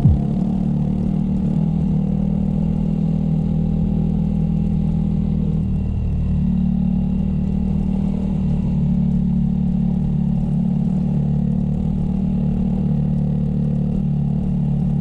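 Motorcycle engine running steadily under way, with a slight change in its note about six seconds in.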